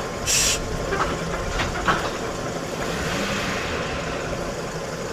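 Street traffic with vehicles running steadily, a short loud hiss just after the start and a couple of sharp clicks a little later.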